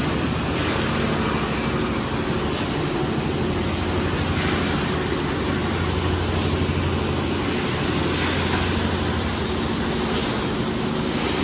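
Fully automatic PET blow moulding machine running: a steady machine hum with a constant hiss, and a slightly louder hiss about every three to four seconds.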